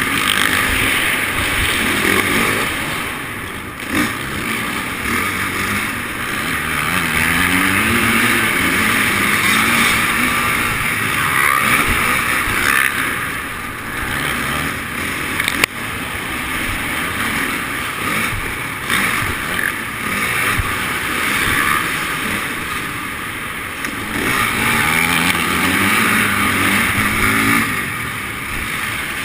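Motocross bike engine running and revving, its pitch climbing a few times as the throttle opens.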